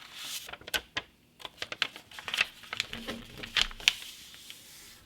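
A sheet of printer paper being handled, folded and creased by hand: a run of irregular sharp crinkles and taps.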